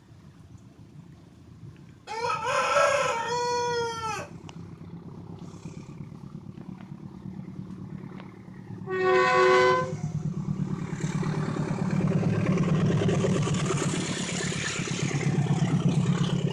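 A rooster crows once about two seconds in. A short, steady horn blast follows a few seconds later, and then the low rumble of a passing train builds and keeps going.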